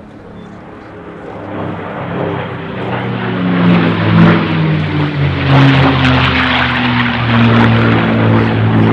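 P-51D Mustang's Packard Merlin V12 engine and propeller making a low flypast. The sound grows loud over the first few seconds, then the engine note drops in pitch as the aircraft passes.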